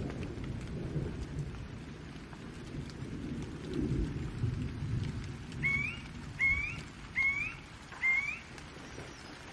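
Low rolling thunder rumble under steady rain. In the second half a bird calls four times in a row, each a short rising chirp, and these chirps are the loudest sounds.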